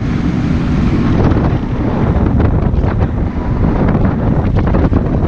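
Heavy wind buffeting on an unshielded camera microphone while riding a Yamaha Ténéré 700 motorcycle, with the bike's parallel-twin engine running underneath the rumble.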